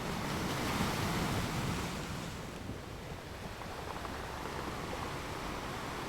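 Gentle ocean waves breaking and washing ashore: a steady rush of surf that swells louder about a second in and eases off again after about two seconds.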